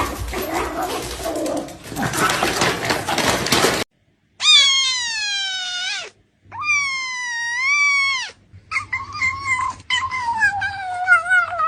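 A stretch of dense noise, then after a sudden cut three long, drawn-out cries from a pet animal, each wavering and sliding down in pitch.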